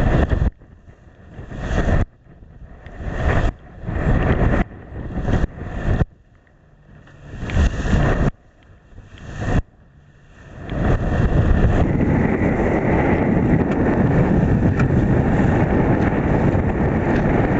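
Strong wind buffeting the microphone in surges that build up and then cut off sharply, then from about eleven seconds in a steady loud rush of wind and spray.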